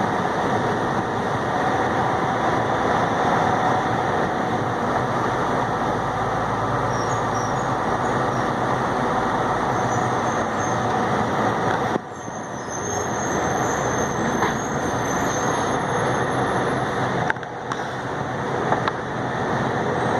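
A delivery truck running down the road: steady engine and road noise that drops off suddenly about twelve seconds in, then builds back up. A few knocks come near the end.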